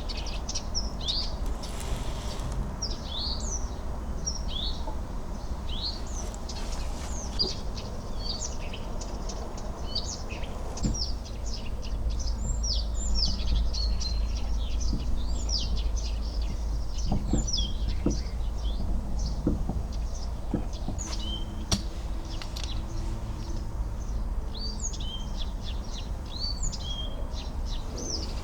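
Small birds chirping, many short quick calls one after another, over a steady low rumble. A few soft knocks come in the second half.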